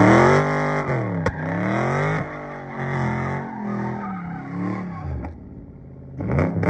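Dodge Charger Scat Pack's 6.4-litre 392 HEMI V8 revving up and falling back over and over as the car drifts, with tyres sliding and a single sharp crack about a second in. The engine eases off briefly near the end, then revs climb again.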